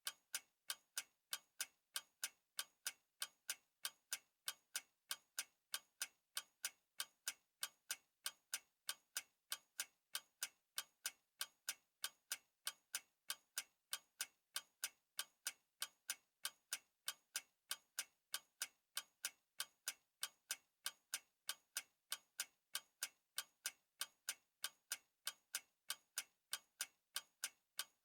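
Clock ticking steadily: crisp, evenly spaced ticks, several a second.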